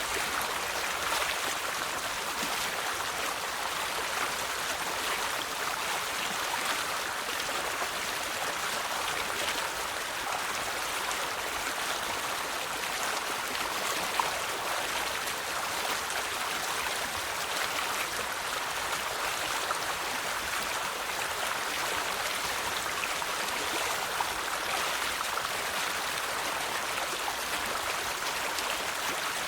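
A river flowing over stones: a steady babbling rush of water with small irregular splashes and trickles.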